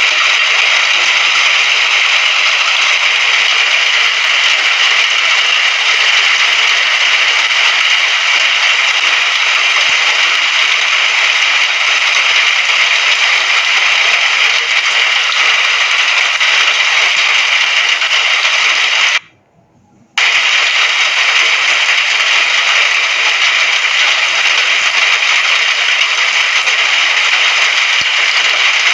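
Steady rain hiss, even and unbroken except for a sudden dropout of about a second roughly two-thirds of the way through, after which it resumes unchanged.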